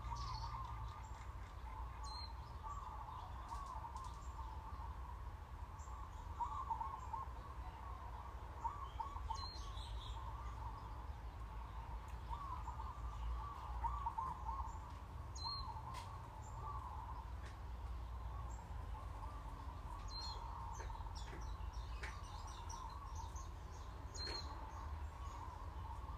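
Birds chirping and warbling without a break, with a short high chirp every few seconds, over a low steady hum.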